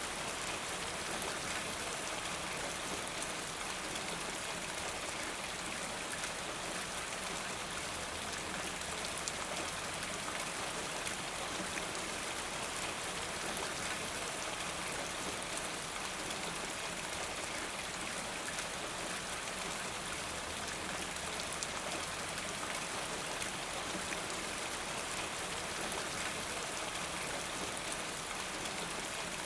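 Steady rain falling, an even hiss with a fine patter of individual drops, unchanging throughout.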